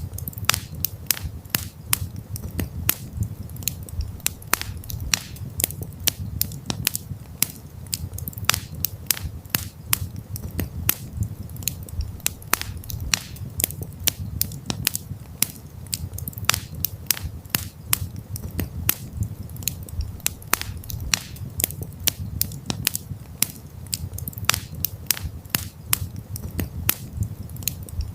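Wood campfire crackling, with many sharp, irregular pops several times a second over a steady low rumble of the flames.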